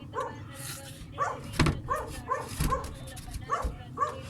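A dog yipping in a rapid series of short, high calls, with two sharp knocks in the middle.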